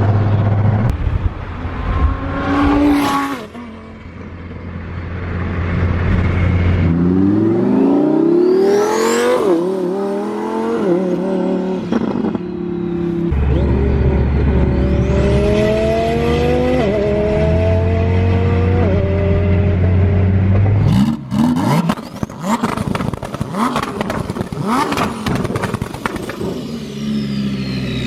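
Twin-turbo Lamborghini Huracan Performante V10 revving and accelerating hard, its pitch climbing and dropping back at each upshift. About two-thirds of the way in come a run of sharp pops and crackles from the exhaust.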